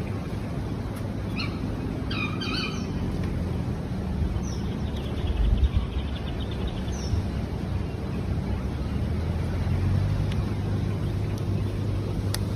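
An engine running steadily with a low, even hum, with a few short bird chirps over it.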